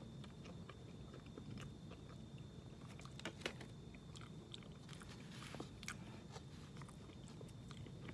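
Faint chewing and biting on a microwaved chicken burrito, with scattered small crunchy clicks from its hard tortilla shell.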